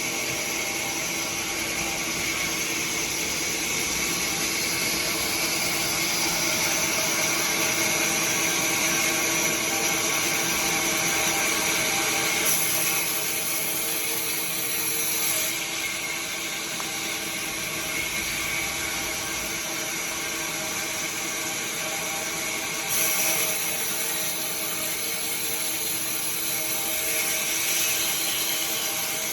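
Sawmill machinery running steadily: a continuous mechanical whine and hum made of many steady tones. The high-pitched part brightens for a few seconds about twelve seconds in and again from about twenty-three seconds.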